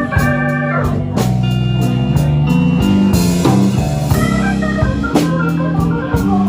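Live blues band playing an instrumental break in a slow blues: an organ holds and changes chords over drums, with cymbal hits.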